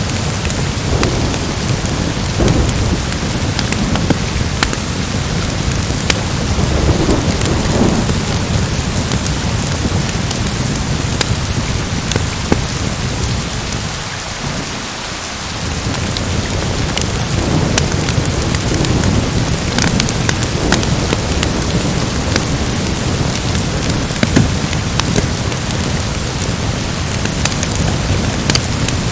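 Steady heavy rain with low rolling thunder that eases off briefly about halfway through, over the snapping crackle of a wood fire in a fireplace.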